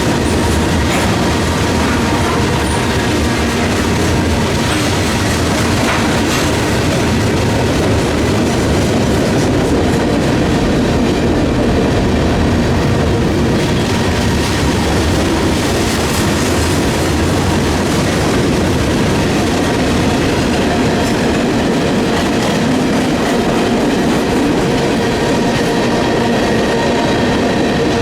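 Freight train cars rolling past on steel rails: a steady loud rumble of wheels on track with clickety-clack, and faint steady wheel squeal tones.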